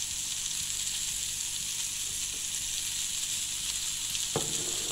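Beef burger patties topped with cheese slices sizzling steadily in a hot ridged grill pan, with a brief clatter near the end.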